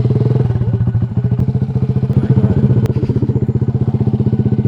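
Motorcycle engine idling just after being started, a steady, even run of firing pulses, briefly a little louder about two seconds in.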